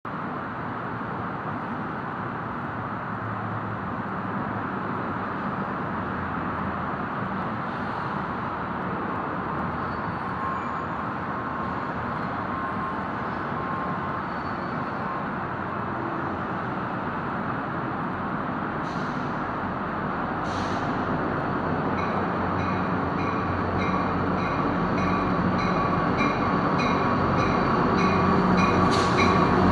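Steady traffic rumble, then an approaching San Diego Coaster commuter train growing louder over the last several seconds. About two-thirds of the way in a bell starts ringing steadily, about one and a half strikes a second.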